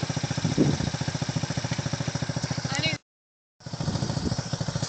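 Honda CT90 trail bike's small single-cylinder four-stroke engine idling steadily with an even, fast putter. The sound cuts out completely for about half a second around three seconds in, then the idle resumes.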